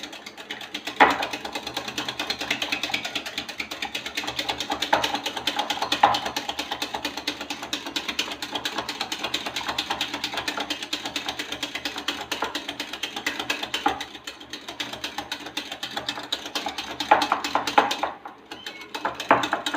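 Electric hand mixer beating a runny egg, oil and milk batter in a bowl: a steady motor hum with the beaters rattling rapidly against the bowl. It stops about eighteen seconds in, followed by a few knocks.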